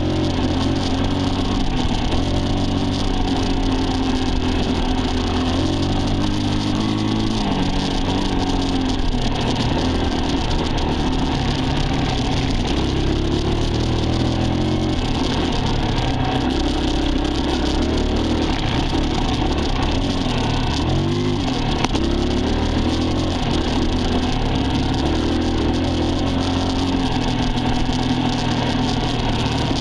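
Dirt bike engine running continuously while ridden, its pitch rising and falling with throttle and gear changes.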